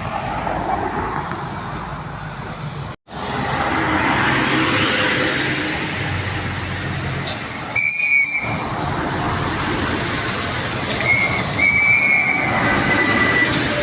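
Heavy trucks driving past on a steep uphill road: continuous engine and tyre noise, with brief high-pitched squeals about eight seconds in and again near the end. The sound drops out for an instant about three seconds in.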